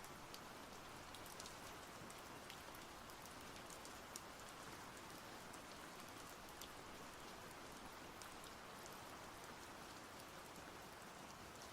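Quiet, steady rain: an even hiss with many small drop ticks scattered through it.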